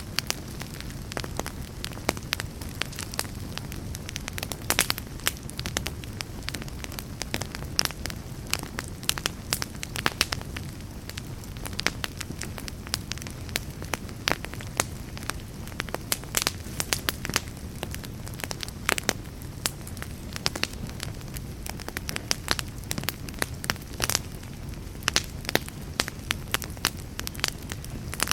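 Logs burning in a fireplace: frequent, irregular sharp crackles and pops over a steady low rush of flame.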